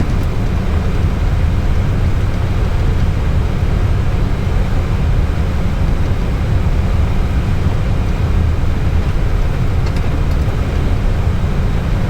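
Steady low drone of airliner flight-deck noise in flight, engine and airflow noise heard from inside the cockpit, with a faint tick near the end.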